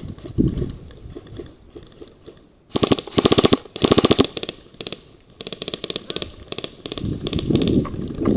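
Airsoft rifle firing two quick full-auto bursts, a rapid even rattle of shots, followed by fainter bursts of rapid fire.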